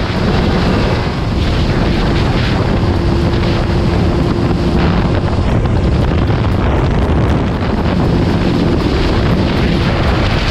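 Motorcycle engine and exhaust running steadily while riding, with heavy wind buffeting the microphone.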